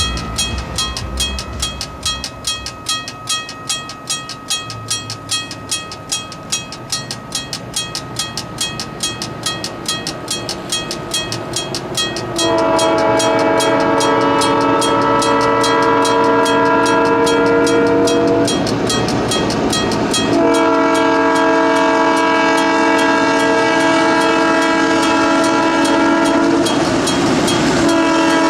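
Level-crossing signal bell ringing in rapid, even strokes as a diesel freight locomotive approaches. About twelve seconds in, the locomotive's multi-chime air horn sounds two long blasts and starts a third near the end: the crossing warning signal.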